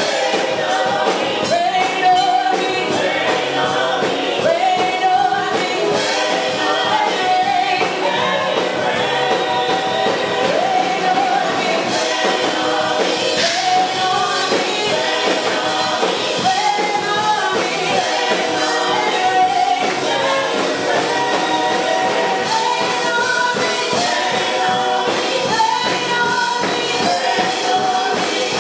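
Music: voices singing a gospel-style song together, with instrumental accompaniment.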